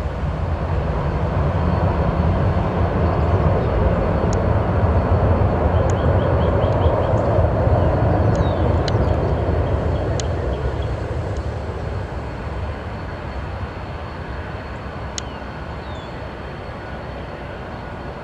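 Jet airliner passing by, its engine roar swelling to a peak about halfway through and then slowly fading away.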